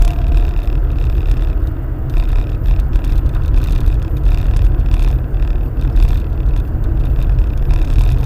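Car driving, heard through a dashcam microphone inside the cabin: a steady low rumble of engine and road noise.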